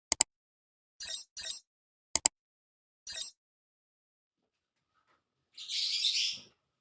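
Cockatiel calling: a few short raspy chirps, then one longer raspy call about six seconds in, with sharp double clicks near the start and about two seconds in.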